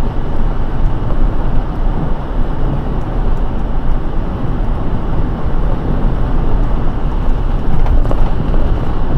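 Car driving on a rain-soaked road: a steady rumble of tyres and rain noise with no breaks.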